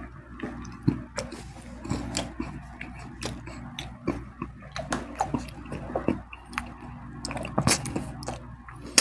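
Close-miked chewing with the mouth closed: soft wet mouth sounds and irregular small smacks and clicks, one sharper smack near the end. A steady low hum runs underneath.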